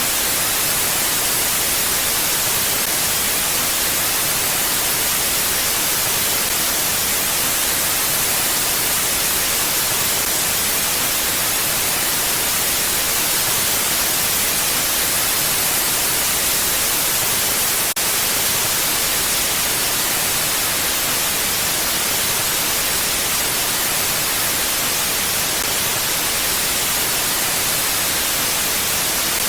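Steady, even wind hiss with no gusts or swells, bright and close to white noise. One faint click comes about eighteen seconds in.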